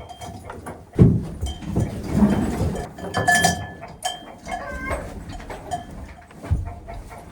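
Farmyard livestock sounds: a sudden knock about a second in, then rustling and a couple of short animal calls.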